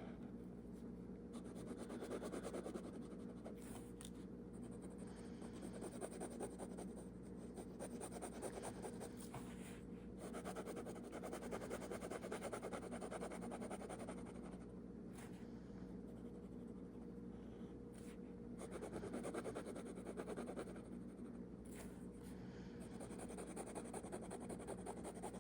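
Faint scratching and brushing on paper as ink is laid down, in uneven strokes that come and go every second or two, over a steady low hum.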